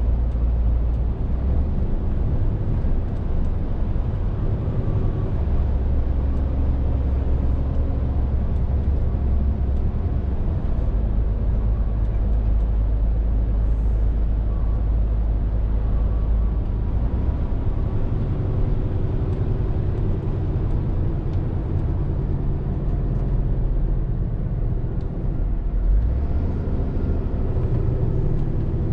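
Scania R450 lorry's diesel engine running on the move, a steady low drone whose pitch steps up and down every few seconds.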